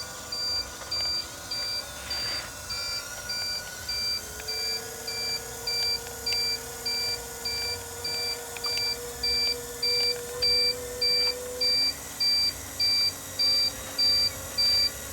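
An RC construction toy's electronic reversing-alarm sound effect, beeping evenly at about three beeps every two seconds. For part of the time a faint steady electric-motor whine runs underneath.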